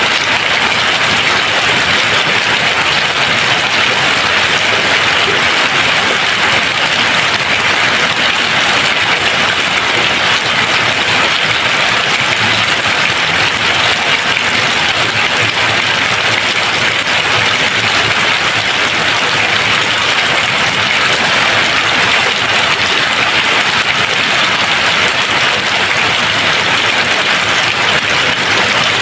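Steady rain falling, an even hiss of drops with no thunder and no change in strength.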